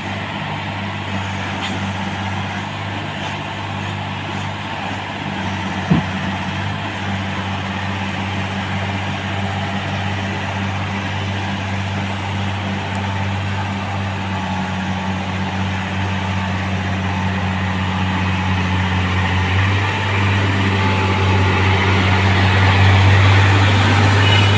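Diesel engine of a railway track-changing machine running steadily with a deep hum, growing louder over the last few seconds, with a single sharp knock about six seconds in.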